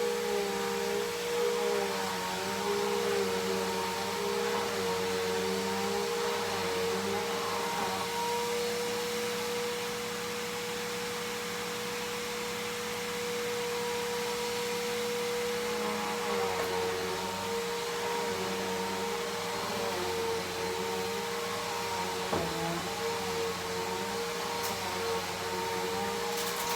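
Bissell PowerForce Helix Turbo upright vacuum cleaner running steadily, its motor hum wavering in pitch during the second half, with one short knock a little past the middle.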